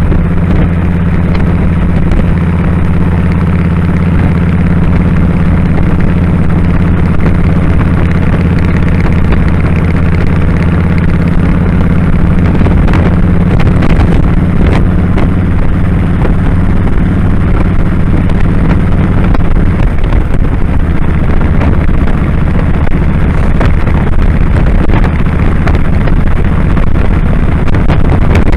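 2001 Kawasaki Drifter 1500's V-twin engine running steadily under way on the road, with a rush of riding wind. The engine note drops slightly about twenty seconds in.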